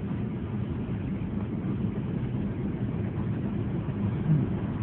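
Steady low rumble of vehicle engine noise, with no distinct individual events.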